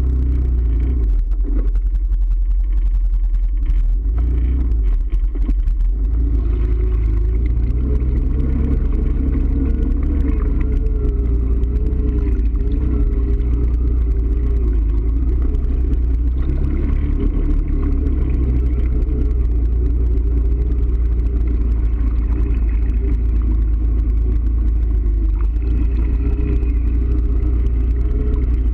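Motor vehicle engine running under way with a heavy low rumble, its pitch wavering slightly with the throttle; the sound is rougher and clattery for the first several seconds, then settles into a steadier drone.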